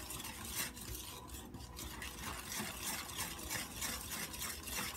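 Wire whisk beating a thin liquid custard filling in a glass mixing bowl: quiet, rhythmic swishing strokes, a few a second, with the wires brushing the glass.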